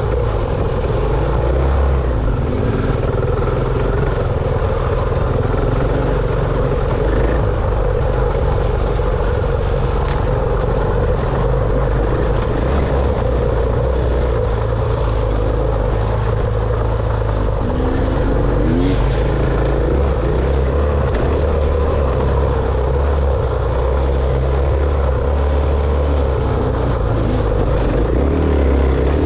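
Dirt bike engine running continuously during an enduro trail ride, its note shifting a little every few seconds with the throttle.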